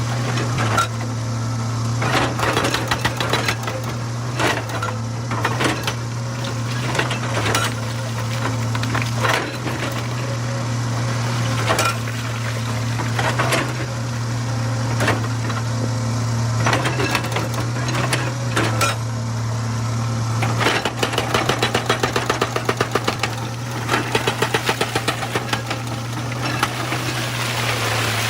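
Excavator's diesel engine running steadily while its bucket knocks and scrapes against stone and rocks clatter, with many sharp impacts. Near the end a fast, regular run of knocks, about five or six a second, lasts several seconds.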